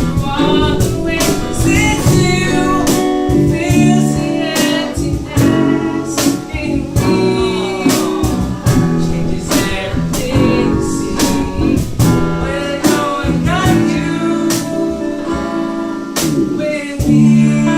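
A band rehearsing a song: guitar with drum hits and singing.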